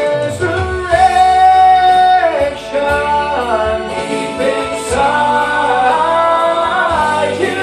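Christian gospel song: voices sing long held notes that slide from one pitch to another, with no clear words, over a steady instrumental accompaniment.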